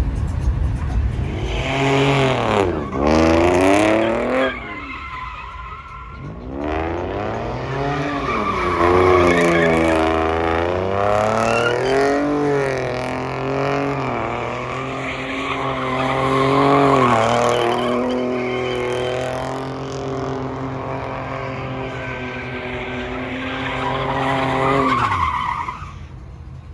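A car doing a burnout: the engine revs up and falls back again and again while the spinning rear tyres squeal. It eases off about 25 seconds in.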